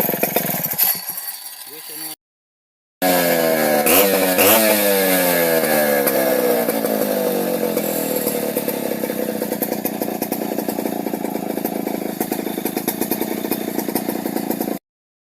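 Stihl 070 chainsaw's two-stroke engine running, slowing down over the first two seconds before the sound breaks off. It then comes back revved up and down twice, runs steadily at high speed with its pitch slowly sinking, and cuts off suddenly near the end.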